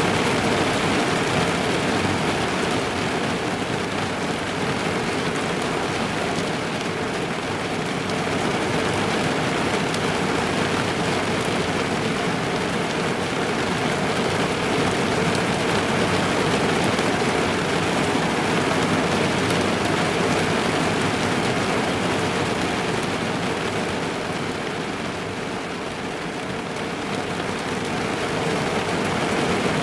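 Steady rain falling on a car's roof and windows, heard from inside the cabin, easing slightly for a moment near the end.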